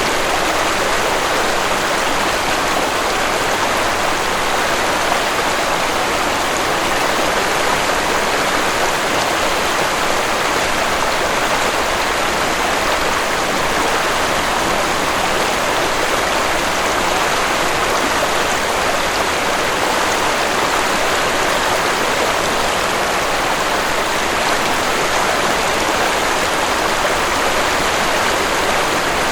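Waterfall rushing steadily, an even, unbroken sound of falling water.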